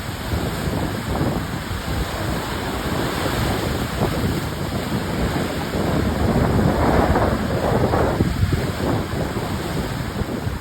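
Stormy sea surf breaking and washing on the shore, with strong gusty wind buffeting the microphone. The surf surges louder about seven seconds in.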